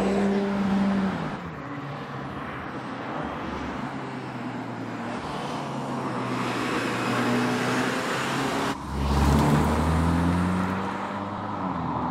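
Audi S3's turbocharged 2.0 TFSI four-cylinder engine and exhaust under way, the engine note rising and falling as the car accelerates through bends. It drops off after about a second, cuts out abruptly about nine seconds in, then comes back louder and deeper before easing near the end.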